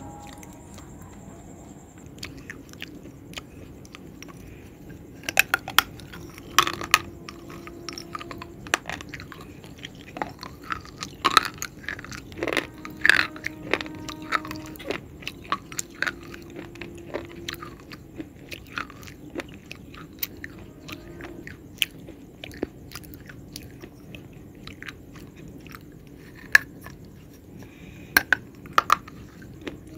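Close-miked bites and chewing of a hard, brittle food: sharp cracks and crunches come in clusters with quieter stretches of chewing between them.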